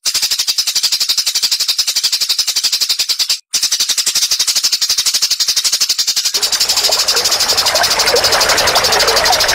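A rapid, even, high-pitched animal trill of about fifteen pulses a second, with a brief break about three and a half seconds in. A noisy outdoor background joins at about six seconds.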